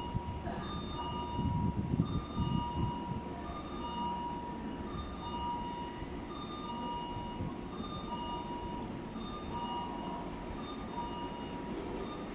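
A train at the station platform: a low rumble of the train moving, strongest a couple of seconds in, with an electronic tone repeating on and off over it.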